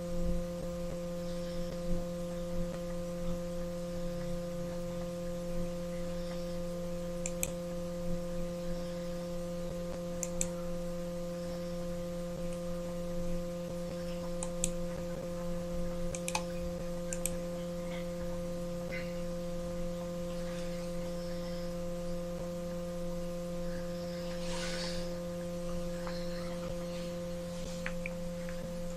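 Steady electrical hum with a buzzy stack of overtones, with a few faint, short clicks scattered through it.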